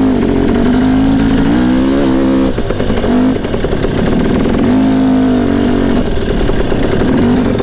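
Dirt bike engine running under throttle on a trail, its note climbing and then falling away twice as the throttle is eased off, over a steady rumble.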